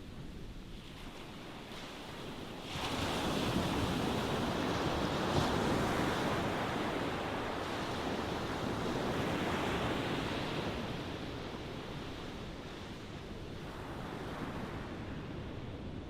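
Ocean waves breaking on a shore: a wave comes in a little under three seconds in, its surf washing loudly for several seconds before easing back to a steady low wash.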